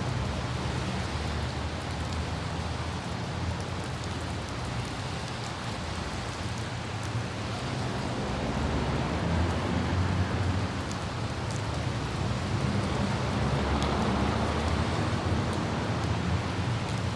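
Light rain with occasional droplet ticks over a steady low rumble of car and road noise mixed with wind.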